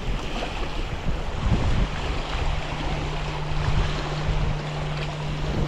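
Squally wind buffeting the microphone in gusts, with water washing against the bank. A steady low hum runs underneath.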